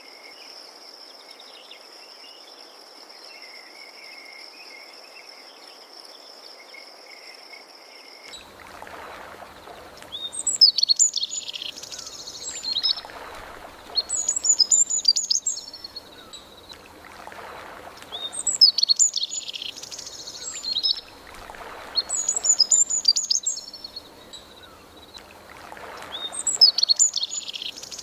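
Crickets trilling steadily and high. About eight seconds in, this cuts abruptly to a songbird singing bright, twittering phrases about every four seconds, over a soft wash of background noise.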